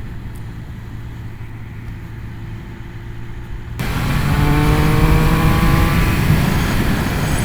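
Triumph Speed Triple 1200 RS inline three-cylinder engine running under way at a steady low hum. About four seconds in it suddenly gets much louder, its several engine tones coming through clearly over a rushing noise, as the bike picks up.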